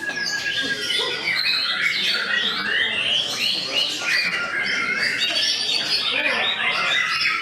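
White-rumped shama (murai batu) singing a rapid, varied song of whistled notes that run on without a break, dense with overlapping phrases.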